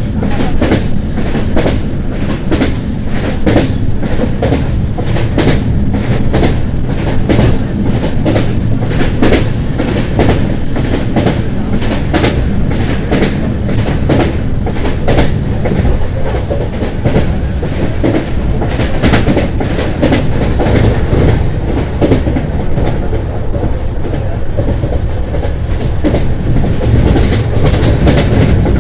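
LHB passenger coach running at speed on the line: a steady rumble of the wheels on the rails, broken by frequent sharp clicks and knocks as the wheels pass over rail joints.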